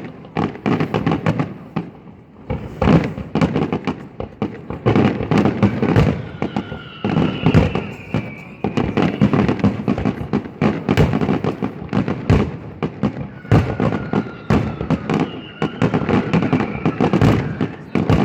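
Fireworks display going off in a rapid barrage of bangs and crackles. High whistling tones glide down in pitch about a third of the way in and again near the end.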